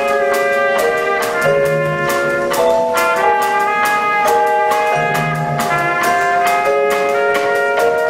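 School band playing a piece: wind and brass instruments holding chords that change every second or so, over a steady drum and cymbal beat.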